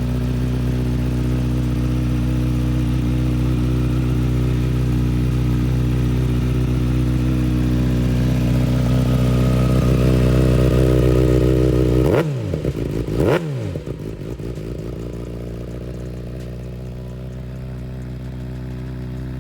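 Kawasaki Ninja ZX-6R 636's inline-four engine idling through a Yoshimura full exhaust, warm and steady. About two-thirds of the way through it is revved twice in quick succession, then settles back to a lower, quieter idle.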